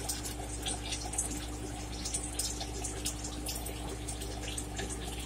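Faint, wet mouth clicks and smacks of someone chewing food, scattered irregularly over a steady low electrical hum.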